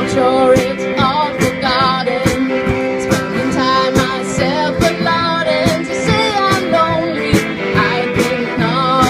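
Live rock band playing: a steady drum beat under bass and guitar, with a wavering lead melody on top.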